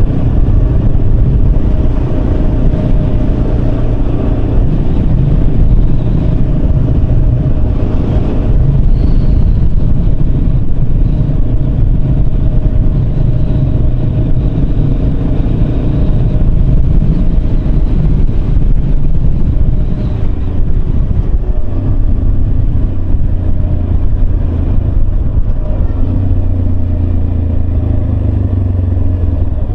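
Yamaha Serow 250's single-cylinder engine running steadily while the motorcycle is ridden, over a dense low rumble; the engine note changes pitch about two-thirds of the way through.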